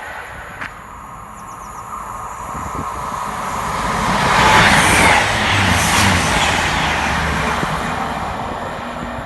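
Fast passenger train passing through at speed. A rushing rumble builds over a few seconds, is loudest about halfway, then slowly fades.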